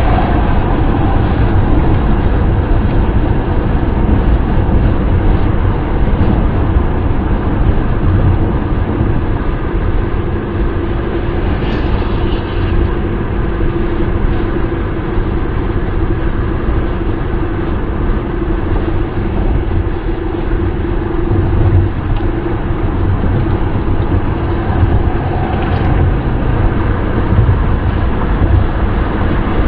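Steady wind and road noise of a car driving, a constant low rumble strongest in the bass. A faint steady hum comes in about a third of the way through and fades out about two-thirds through.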